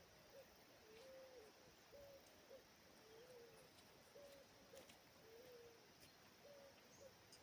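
Faint bird calls: soft hooting notes repeated about once a second, a short two-part note alternating with a longer arched one.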